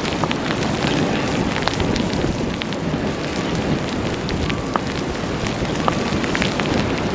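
Blizzard wind and blowing snow on the microphone: a steady rushing noise scattered with many small crackling ticks.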